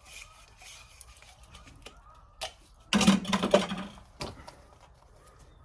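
Metal hand tools being handled on a copper pipe: faint rubbing strokes, then a loud burst of rapid clicking and rattling about three seconds in, with single clicks just before and after it.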